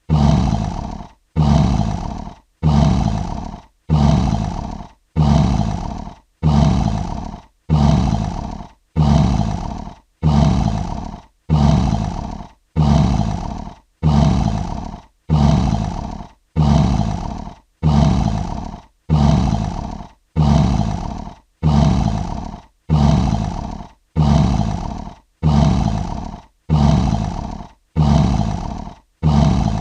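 Lion roar, a short roar repeated at even spacing about every one and a half seconds. Each roar starts loud and fades, with a brief silent gap before the next.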